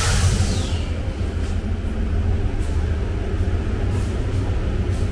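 Train running on the rails with a steady low rumble, with a short hiss and a brief falling high squeal right at the start.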